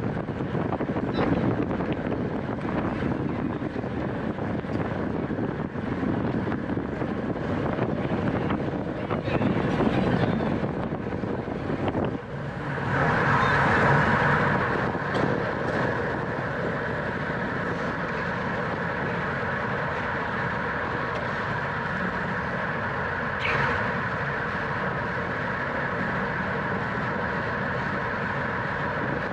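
Road bicycle ridden at race speed in a criterium: rushing wind and rolling noise. About twelve seconds in, this settles into a steady hum.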